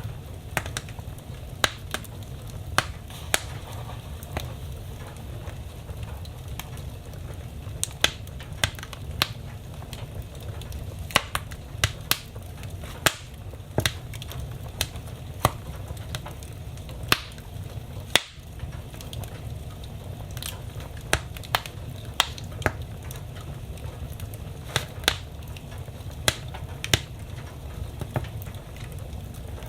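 Wood fire burning in a fireplace, crackling with irregular sharp pops, sometimes several a second, over a steady low rumble.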